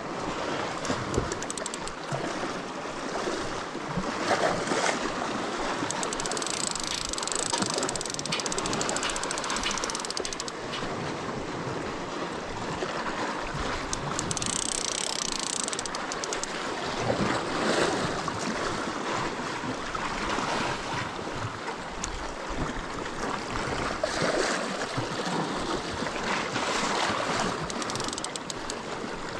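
Sea waves washing and surging over shore rocks, swelling and easing several times, with wind buffeting the microphone.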